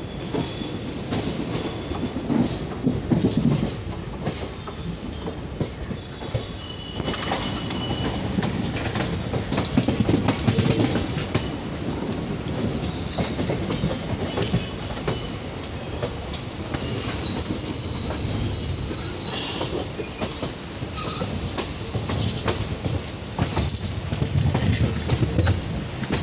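Passenger train coach running over the tracks, heard from aboard: a steady rumble with wheels clattering over rail joints and points, and a few brief high wheel squeals, the longest a couple of seconds about two-thirds of the way through.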